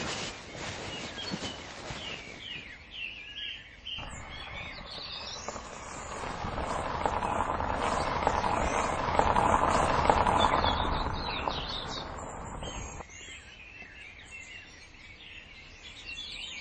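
Birds chirping outdoors. A broad rushing noise comes in about four seconds in, swells to its loudest after about ten seconds and cuts off sharply near the end, leaving the birdsong alone again.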